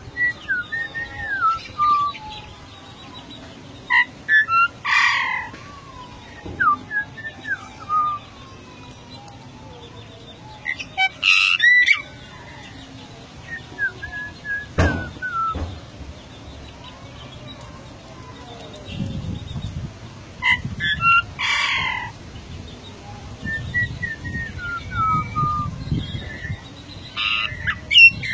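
Golden myna calling: a run of short whistled notes that slide in pitch, broken about four times by louder, harsher calls.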